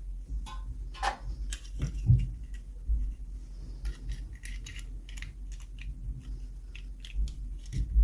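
Hands unboxing small plastic toys and packaging: a scatter of short clicks, taps and rustles, with a heavier knock about two seconds in, over a low steady hum.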